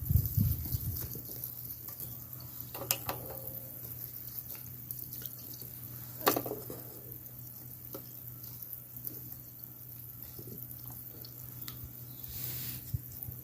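Water splashing and dripping, with a few sharp clicks and knocks over a steady low hum.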